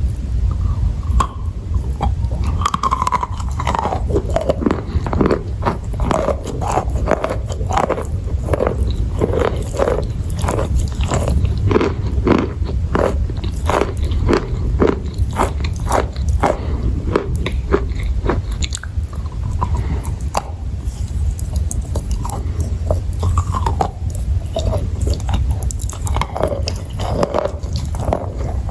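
A person biting and chewing crunchy chalk and clay, with crisp crunches coming several times a second throughout.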